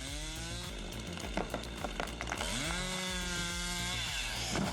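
Chainsaw engine revving up and holding high while cutting, its pitch climbing at the start and again about halfway through, with several sharp snaps in between.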